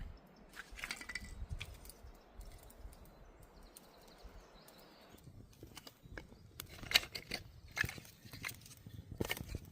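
Irregular knocks and taps of hands-on food preparation, a few in the first half and more frequent in the second half.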